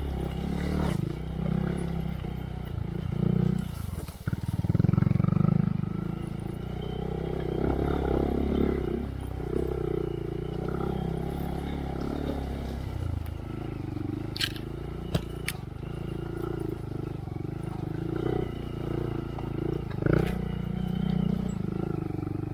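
Honda Monkey's single-cylinder four-stroke engine through a Yoshimura RS3 slip-on exhaust with spark arrestor, riding slowly on a trail with the revs rising and falling on the throttle. A few short sharp clicks come about two thirds of the way in.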